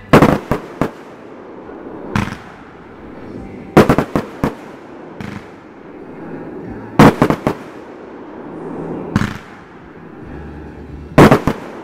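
Consumer aerial fireworks going off: a group of sharp bangs every three to four seconds, with a single pop between each group.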